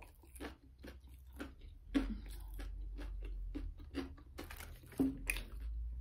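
Close-up chewing and crunching of a crispy, crumb-coated fried veg nugget, with many short crackly bites at an uneven pace.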